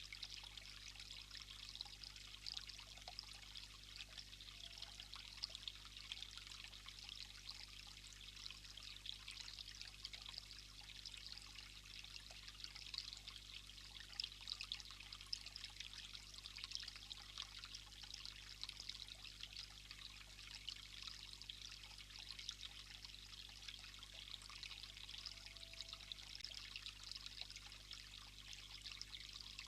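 Faint, steady sound of running water, an even trickling hiss.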